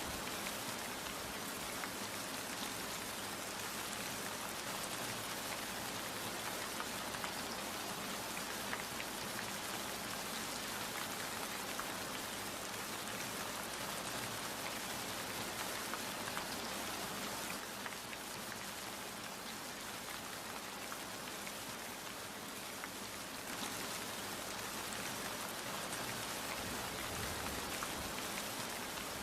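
Steady rain falling, a dense hiss of many drops landing, easing slightly for a few seconds past the middle.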